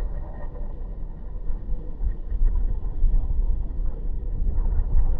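Car driving on city streets: steady low road and engine rumble.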